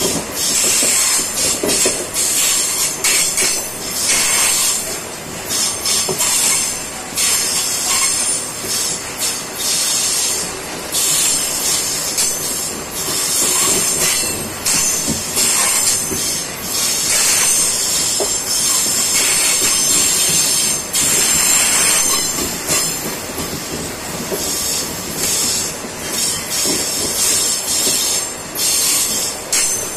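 MRS freight train's wagons rolling past, their steel wheels screeching high-pitched against the rails, the sound swelling and fading in waves.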